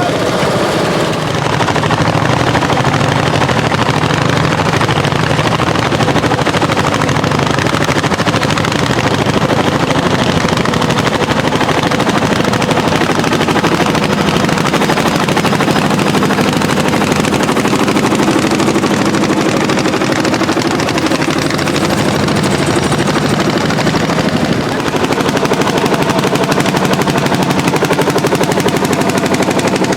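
Landini L55 hot-bulb tractor's single-cylinder two-stroke engine working hard under plowing load, its exhaust a fast, steady train of loud pops.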